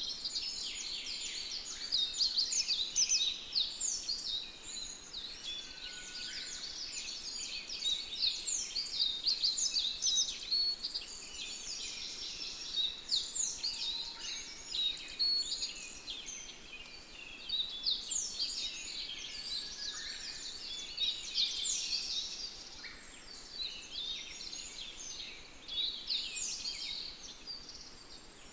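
Many small birds chirping and singing together, a dense chorus of quick high falling notes that comes and goes in clusters.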